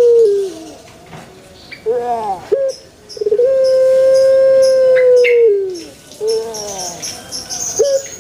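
Puter pelung (Barbary dove) cooing: a long note held steady and sliding down at its end, followed by a few short falling notes, the phrase repeating twice.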